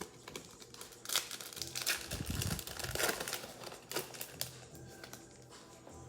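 Plastic wrapper of a Mosaic football card pack being torn open and crinkled, a burst of crackling that starts about a second in and dies away after about three and a half seconds.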